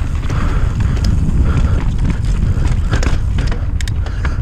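Mountain bike descending a dirt trail: a steady, loud rumble of wind buffeting the microphone and tyres rolling over dirt, with a few sharp clicks near the end.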